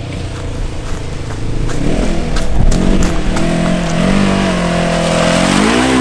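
A 1,000 cc side-by-side's engine revving hard through a mud hole, getting louder about two seconds in, its pitch rising and falling with the throttle. A few sharp clicks are heard around the loudest stretch.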